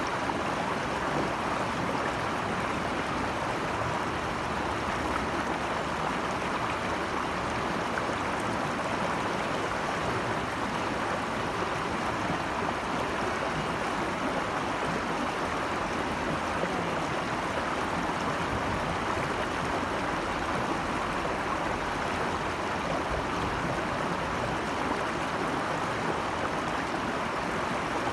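Rushing water of a mountain stream, a steady even rush with no breaks.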